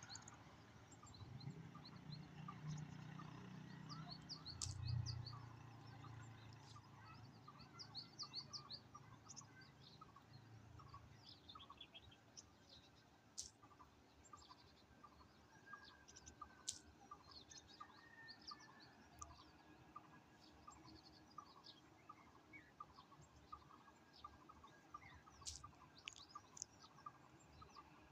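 Faint outdoor birdsong: many short, high chirps from several birds, with a steady run of repeated short notes from about halfway on. A low rumble fills roughly the first ten seconds, loudest about five seconds in.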